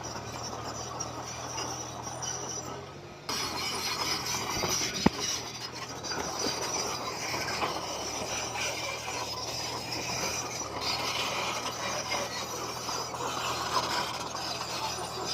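Komatsu bulldozer's engine running under load, with stones grinding and clinking as rock fill is pushed. A single sharp knock about five seconds in.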